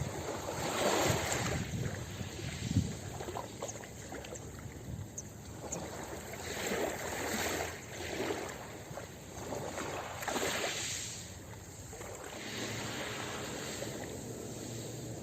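Ocean surf washing onto a beach, with waves swelling and breaking every few seconds, then a steadier, softer wash near the end.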